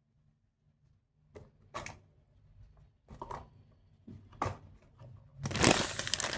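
Soft handling rustles, a few separate ones, then a denser, louder crinkling of something being handled, starting about five and a half seconds in.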